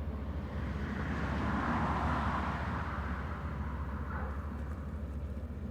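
Tractor engines pulling ploughs, a steady low drone with a broader swell of noise that peaks about two seconds in.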